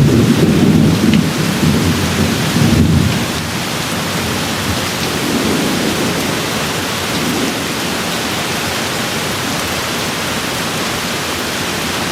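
Steady rain with rolling thunder. A low rumble dies away about three seconds in, and a fainter one swells around the middle, under the even sound of the rain.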